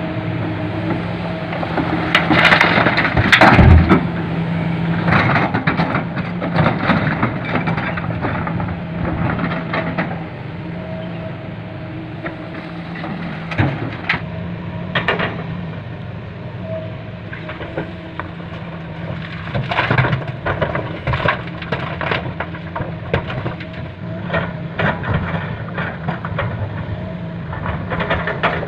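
Hino 500 FM 260 JD dump truck's six-cylinder diesel engine running steadily, with repeated knocks and clatters over it, loudest about three seconds in.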